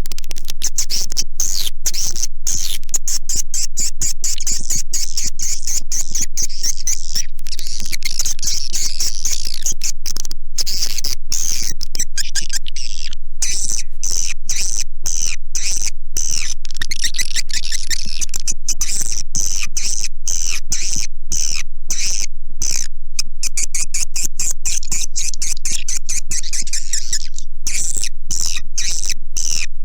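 Swiftlet calls: a dense, unbroken chatter of high twittering chirps at a steady loudness. This is a swiftlet lure recording, the kind played from swiftlet houses to call the birds in.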